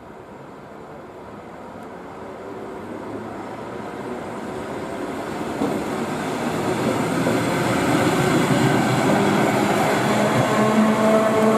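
ER2 electric multiple unit approaching at speed: its rail rumble grows steadily louder for about eight seconds, then runs loud as the train nears.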